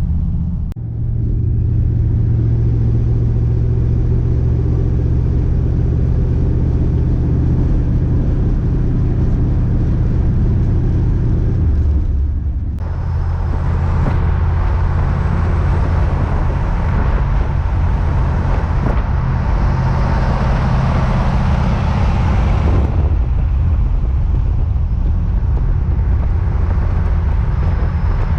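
Vehicle engine running steadily at cruising speed with road noise, heard from inside the moving vehicle. From about 13 to 23 seconds in, a louder rushing noise with more hiss joins in, then drops away.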